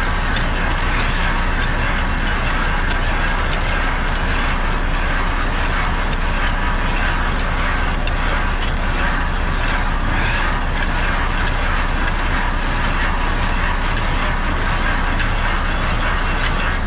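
Semi truck's diesel engine idling steadily, with scattered light ticks over it.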